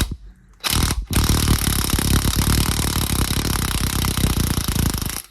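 Angle grinder cutting through a rusted subframe bolt. After a short burst it runs steadily in the metal from about a second in, then cuts off suddenly.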